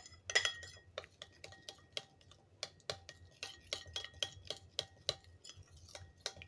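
A spoon stirring paprika and turmeric into oil in a bowl, clinking against the bowl's side in quick repeated strikes, about three a second, each with a brief ring.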